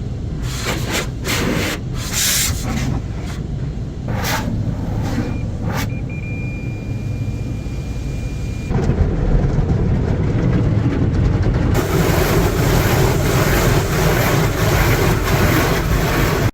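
Automatic drive-through car wash working on a car. First come a series of short sweeping passes of spray, with a thin steady whine midway. About nine seconds in, a louder, steady rush of water and air takes over.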